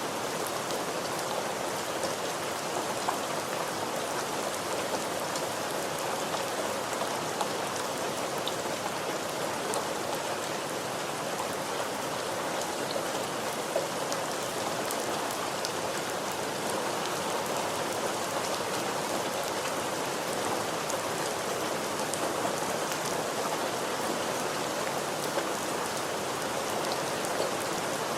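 Steady rain falling: a constant hiss of rain with fine individual drop patters throughout.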